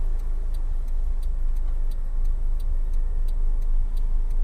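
Steady low rumble of a road vehicle driving, with a faint regular ticking about twice a second over it.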